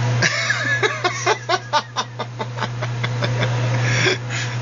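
Microwave oven running with a steady low hum. Over it, a quick string of short, sharp sounds, about four or five a second, starts about a second in and stops near the end.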